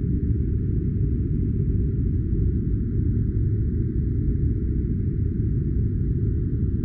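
A steady, unchanging low noise, a deep filtered 'white noise' sleep-sound track, with only a faint hiss above it and no distinct events.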